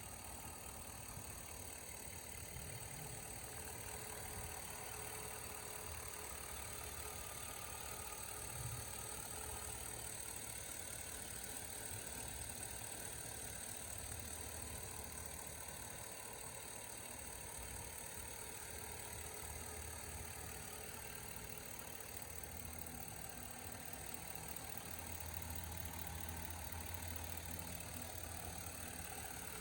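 2007 Chevrolet Silverado Classic 1500 pickup's engine idling steadily, with one brief bump about nine seconds in.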